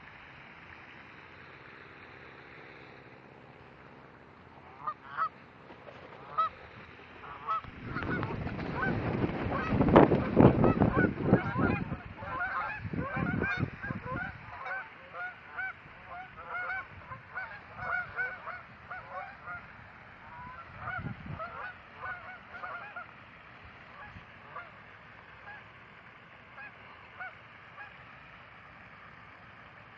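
A flock of geese honking, many short calls overlapping and then thinning out near the end. A loud low rushing noise runs under the calls for several seconds in the middle.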